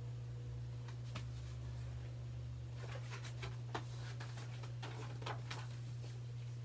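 Picture-book pages being handled and turned: a few light paper rustles and taps, over a steady low hum.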